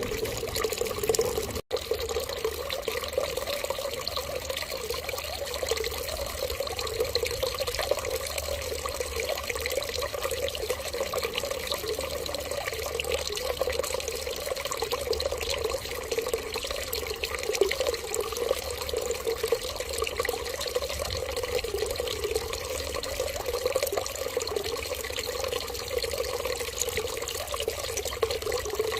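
Steady running water, an even trickling rush that does not change, broken once by a split-second dropout to silence near two seconds in.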